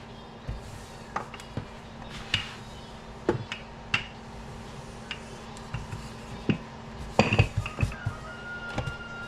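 Scattered clinks and knocks of kitchen dishes and utensils being handled, busiest near the end, over a steady low hum.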